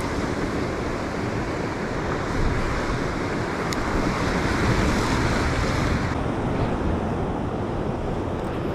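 Ocean surf washing over a rocky shoreline, a steady rushing hiss, with wind on the microphone. The hiss eases a little about six seconds in.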